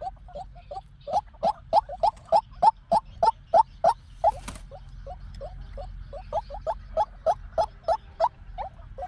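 White-breasted waterhen calling: a long run of short, repeated notes, about three or four a second.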